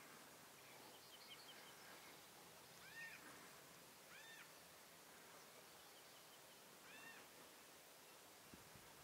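A bird gives three faint, short high calls, each rising and then falling in pitch, spaced a second or more apart. A few faint ticks come before them.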